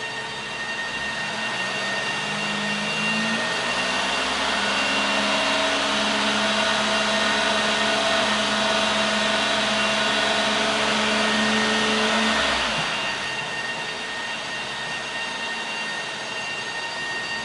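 Daihatsu Tanto Custom RS kei car's turbocharged 660 cc three-cylinder engine revved up from idle over a few seconds, held at raised revs, then let back down to idle about twelve seconds in.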